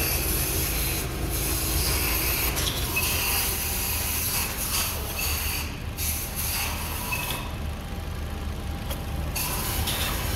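Suzuki Swift's four-cylinder petrol engine idling steadily, heard close up in the open engine bay, with a steady hiss over it and a few brief high squeaks.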